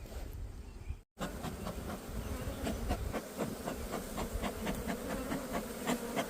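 Honeybees buzzing around an open hive: a steady hum with many short, sharp ticks over it. The sound drops out for a moment about a second in.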